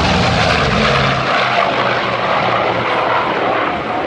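Loud propeller-driven aircraft engine passing by during a flying display. Its low engine drone falls away about a second in, leaving a broad rushing noise of engine and airflow.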